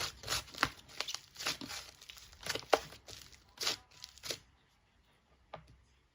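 Irregular crinkling and crackling, a quick run of sharp crackles from something being handled, that stops about four seconds in, followed by one more click near the end.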